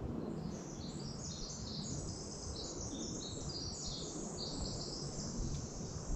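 Small forest birds singing: a busy run of quick, high chirping notes, one after another and overlapping, over a low steady rumble.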